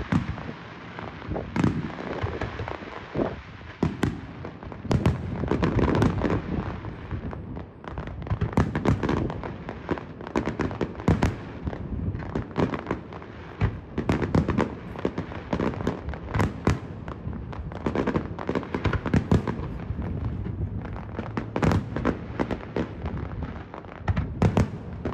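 A fireworks display going off: many sharp bangs and pops in quick, irregular succession, with heavier booms among them.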